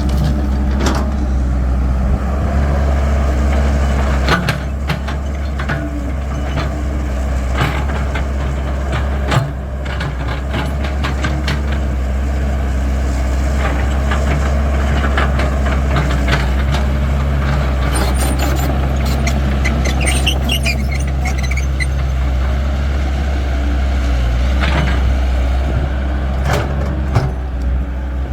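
Caterpillar 312 excavator's diesel engine running steadily while it digs and loads soil, with repeated knocks and clatter from the bucket and dirt. A few short high squeaks come about 18 to 21 seconds in.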